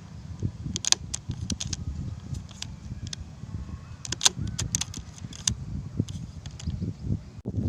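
Handling noise: irregular sharp clicks and light rattling over a low rumble, in clusters about a second in, around four seconds in and again near five seconds.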